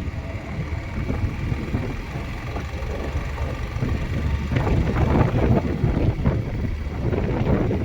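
Motorcycle running at low speed on a downhill ride, with wind rumbling on the microphone; the noise grows louder and rougher for a few seconds past the middle.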